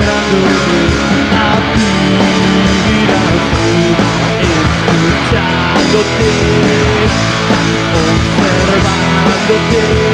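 Punk rock band playing live: electric guitars, bass and drums going steadily at full volume.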